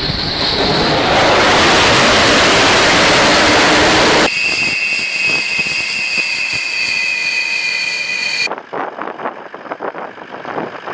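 Military aircraft engines on a carrier flight deck: a loud rushing jet blast for about four seconds, then a sudden change to a steady high-pitched turbine whine, which cuts off abruptly near the end to quieter, uneven engine noise.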